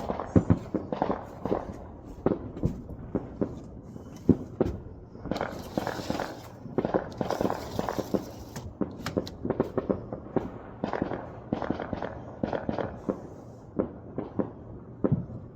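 Fireworks and firecrackers going off in a rapid, irregular series of pops, several a second, with a denser crackle about six to eight seconds in.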